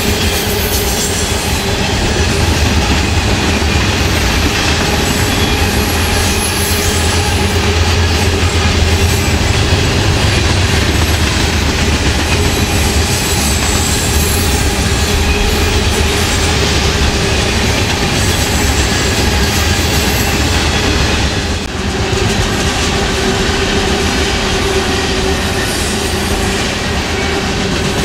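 Freight cars of a fast-moving mixed freight train rolling past close by: covered hoppers, tank cars and boxcars on steel wheels running over the rails in a loud, steady rumble and clatter, with a steady ringing tone from the wheels above it.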